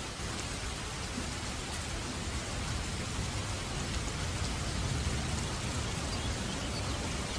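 Steady, heavy rain falling, a dense even hiss of drops, with a low rumble swelling beneath it a few seconds in, like distant thunder.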